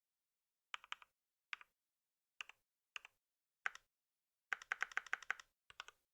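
Typing on a computer keyboard: a few short groups of two or three keystrokes, spaced out, then a quick run of about ten keystrokes near the end.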